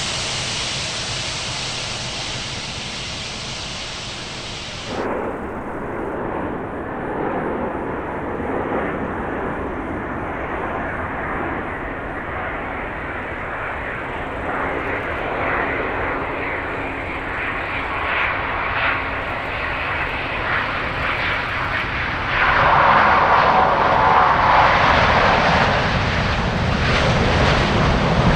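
Jet airliner engine noise: a steady rushing that cuts off abruptly about five seconds in, then a continuous engine sound that gets markedly louder from about 22 seconds on.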